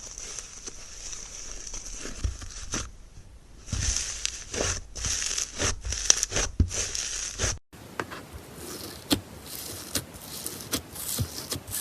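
Slime being squished and pressed by hand, giving dense crackly pops and clicks. The sound changes abruptly about eight seconds in to a different, finer crackle.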